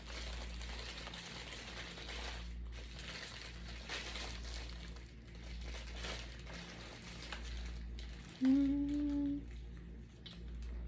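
Paper food wrapper crinkling and rustling during eating, with one short hummed note from a person about eight and a half seconds in, the loudest sound.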